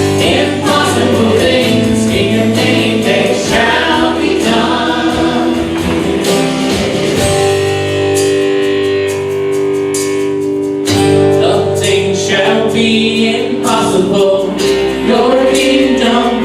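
Worship music: a band with guitar playing a song while a congregation sings.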